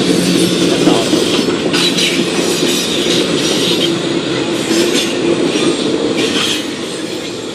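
Passenger cars of a train rolling past at close range, the wheels running over the rails with a steady rumble and repeated brief high-pitched bursts about every second or two. It eases off a little near the end as the cars go by.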